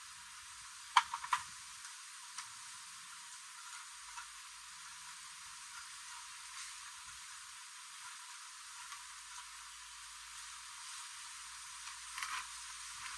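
Steady faint hiss with a few sharp clicks: a quick cluster of three about a second in, a single one a little later, and a few more near the end.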